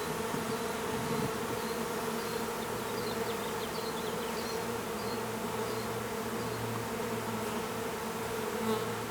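Large honeybee swarm buzzing in a steady, continuous hum around a hive box as the swarm is being hived.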